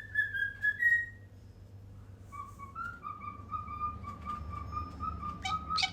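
Whistling: a short, slightly falling whistled note, then after a short pause one long, nearly steady whistle held for about three and a half seconds, wavering a little in pitch.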